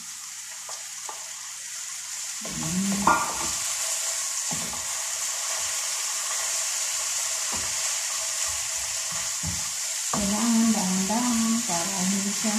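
Small-cut chicken sizzling in a frying pan over a gas flame as it is sautéed in browned garlic and onion, with a steady hiss. A wooden spatula stirs it, knocking and scraping against the pan.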